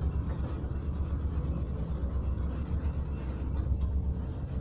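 Loaded tank cars of a freight train rolling past, a steady low rumble of steel wheels on the rails, with a few faint clicks about three and a half seconds in.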